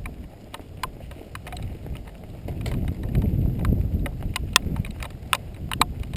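Giant XTC 3 mountain bike ridden over rough dirt trail: tyres rumbling on the ground with irregular clicking and rattling from the chain and frame over bumps. The rumble swells for a stretch about halfway through.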